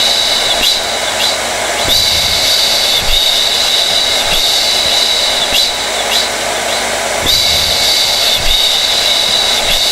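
Hair dryer running steadily: a rush of air with a high whine that swells and eases every few seconds.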